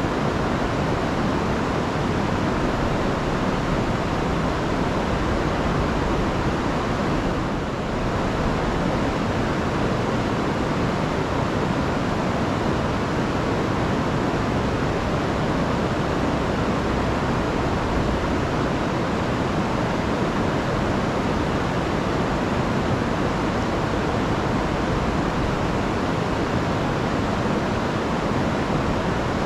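Rain-swollen river rushing over a waterfall: a steady, dense wash of water noise.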